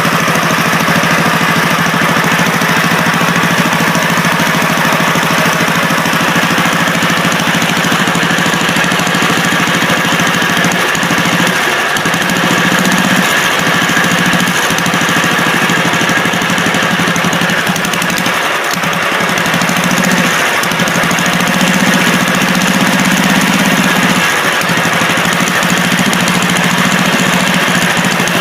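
Lawn tractor engine running steadily after its first start since the muffler and fuel system were refitted, with brief dips in speed now and then.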